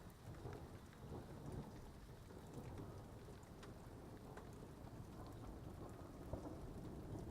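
Thunderstorm: a low thunder rumble dying away over the first second, then lingering and building slightly near the end, with faint rain and scattered raindrop ticks.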